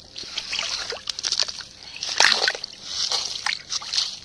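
Seawater splashing and sloshing in irregular surges, with small sharp clicks and ticks among them.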